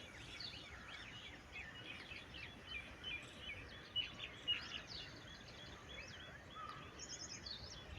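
Many small birds chirping together, faint, with short high chirps overlapping all through and a quick run of higher notes near the end.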